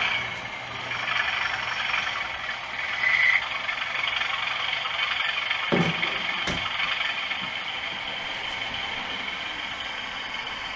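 OO gauge model locomotive with a DCC sound decoder running on the layout, a steady running noise under a low hum. A short high beep about three seconds in, and two dull knocks around six seconds.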